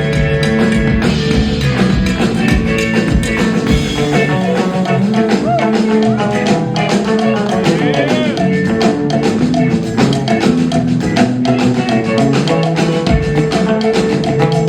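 Live band music with drums, guitar and bass playing, no words sung.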